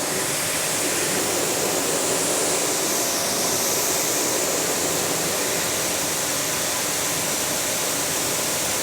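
Pressure washer spraying water onto a car's paint: a steady, unbroken hiss of spray.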